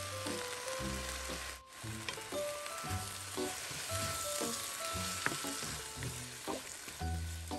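Sliced cabbage sizzling in a hot pan as red sauce is poured in and stirred through with a wooden spatula, a steady frying hiss throughout. Light background music with a plucked melody and bass plays over it.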